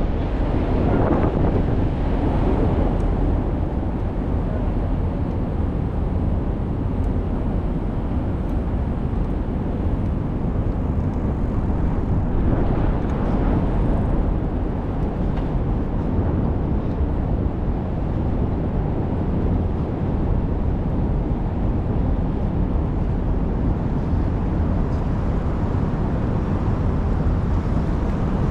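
Steady low rumble of wind on the microphone mixed with street traffic noise during a bicycle ride, swelling briefly a couple of times.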